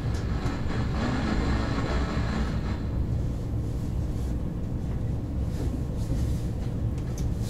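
Steady low rumble of a KTX high-speed train heard from inside the passenger carriage as it runs in toward its station stop, the higher rail noise thinning out from about three seconds in.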